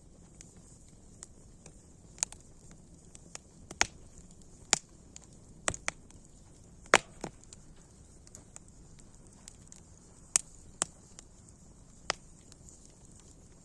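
Wood fire crackling: irregular sharp pops and snaps over a faint steady hiss, the loudest pop about seven seconds in.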